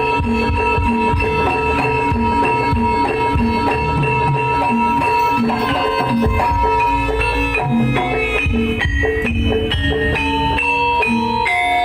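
Live Javanese kuda lumping ensemble music: hand drums beating a steady rhythm under ringing gamelan metallophones. A tone is held through the first half, and from about halfway the metallophones move through changing notes of a melody.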